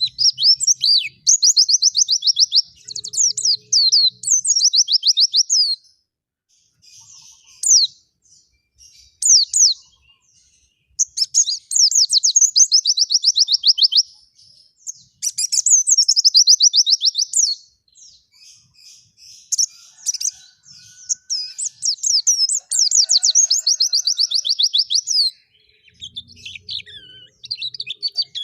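A songbird singing high, rapid trills of quickly repeated short notes. It sings in phrases a few seconds long with short pauses between them.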